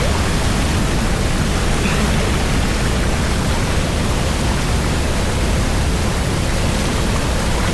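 Steady, loud rushing of water in a canyon, an even roar without breaks.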